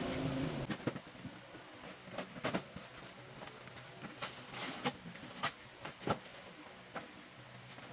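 A car engine running stops within the first second. Then come scattered light clicks and knocks, about a dozen, some sharp, over a quiet background.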